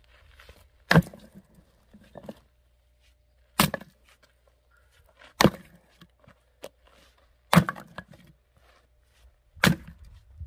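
Axe splitting firewood logs: five sharp, loud strikes about two seconds apart, with fainter knocks between them.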